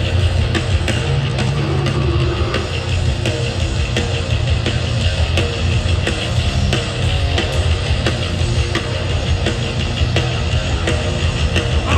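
A death-grind band playing live at full volume: heavily distorted guitars and bass over dense, fast drumming, with no vocals.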